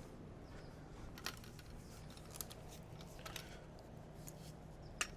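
Faint scattered clicks and light knocks, a handful about a second apart with the sharpest near the end, as a hydraulic hose and its fittings are worked out of a mini excavator. A low steady hum sits underneath.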